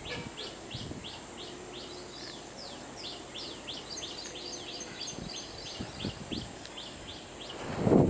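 Small birds calling: a steady run of short, high notes that each drop in pitch, about three a second. A second, higher twittering call joins about halfway through, and a dull low thump comes near the end.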